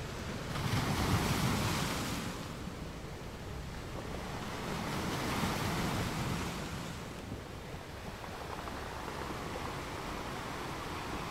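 Small waves washing onto a sandy shore, with wind rumbling on the microphone. The wash swells about a second in and again around five seconds in.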